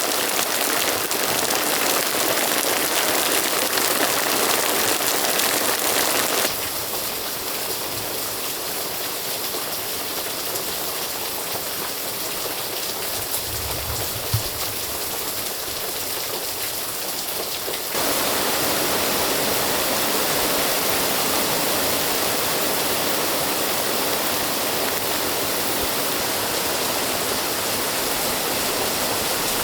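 Heavy rain from a sudden downpour pouring down steadily. The sound changes abruptly in level about six seconds in and again about eighteen seconds in, and a brief low thud comes about fourteen seconds in.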